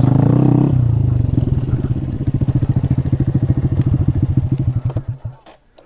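Honda Grom's single-cylinder engine running, dropping to an even idle about a second in, then dying away and stopping near the end as it is shut off.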